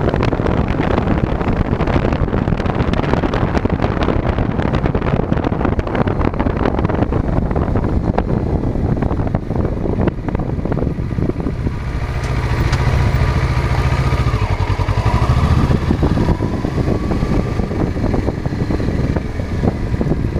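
Wind buffeting and rumbling on a chest-mounted action camera's microphone while riding, with road noise underneath. Roughly midway, a motor vehicle's engine hum grows and then fades.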